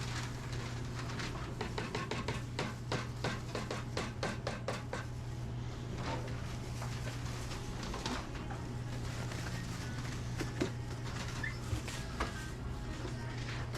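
Restaurant kitchen background: a steady low hum with a constant clatter of dishes, utensils and short knocks, busiest in the first few seconds.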